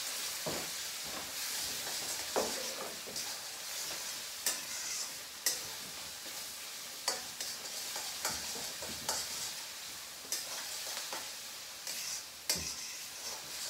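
Onions and garlic-ginger paste sizzling in a hot wok, stirred with a spatula that scrapes and clicks against the pan about once a second. The paste is being kept moving so it doesn't stick.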